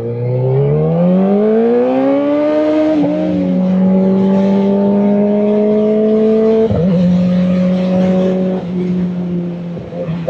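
Kawasaki Ninja ZX-4RR inline-four engine accelerating: its pitch rises for about three seconds, drops suddenly at an upshift, then holds steady. Another sharp shift comes near seven seconds in, and the engine eases off toward the end.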